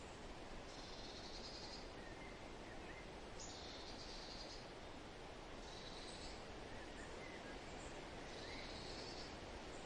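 Steady rustling wind in the forest, with a songbird repeating a short, high phrase about every two and a half seconds, four times, and a second bird giving a few fainter chirps.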